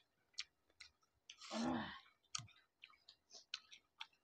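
Close-miked eating sounds: sharp wet mouth clicks and lip smacks of people chewing juicy melon, with a short hummed voice sound about a second and a half in.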